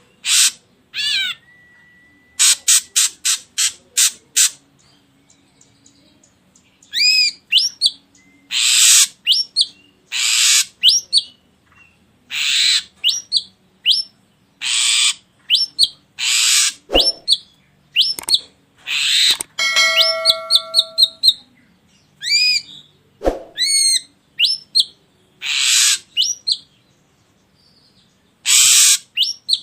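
Ashy drongo calling: harsh, rasping notes repeated every second or two, mixed with clear whistled notes, a quick run of short clicks early on, and a stepped series of whistled notes about two-thirds through.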